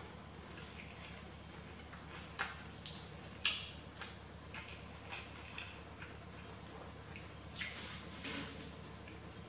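Close-miked mouth sounds of a person eating noodles: a few short, wet smacks and chews spaced seconds apart, the loudest about three and a half seconds in, over a faint steady high-pitched tone.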